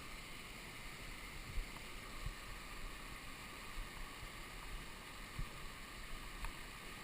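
Steady rush of waterfall water, with a few brief low bumps of wind or handling on the microphone.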